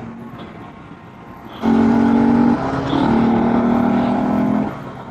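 A vehicle horn blares for about three seconds in a flat, steady tone, with a short dip near the middle. It starts and stops abruptly over low street and engine noise.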